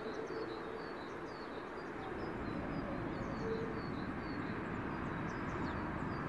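A small bird chirping in quick, evenly repeated high notes over a steady background rumble.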